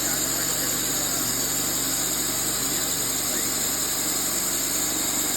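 An old sawmill's engine running steadily at an even pitch and level.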